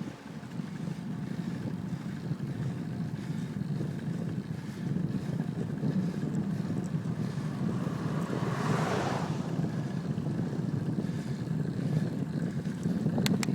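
Wind rumbling steadily on the microphone of a camera carried on a moving bicycle. About nine seconds in, a rushing noise swells and fades, and a few sharp clicks come near the end.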